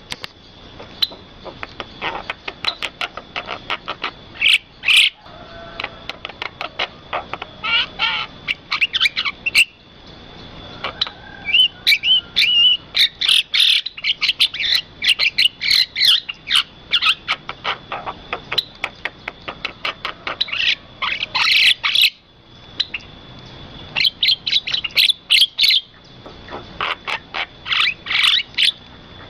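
Birds chirping in quick runs of short, sharp high notes, thick through most of it and easing off briefly about ten seconds in and again a little past twenty seconds, over a thin steady high tone.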